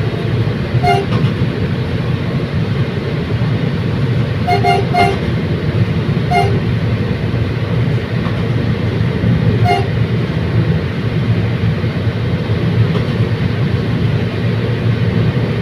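Commuter train running with a steady rumble, its horn giving a series of short toots, about five in the first ten seconds, some in quick pairs.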